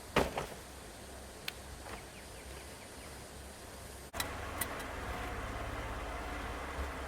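A few sharp knocks over quiet background noise. Then, after an abrupt cut about four seconds in, a steady vehicle running noise with a low rumble.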